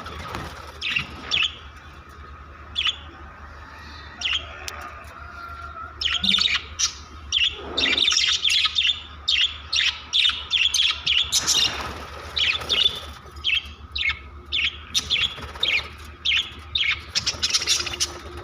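Budgerigars chirping and chattering in short, rapid high calls: scattered at first, then a busy run of overlapping chirps from about a third of the way in.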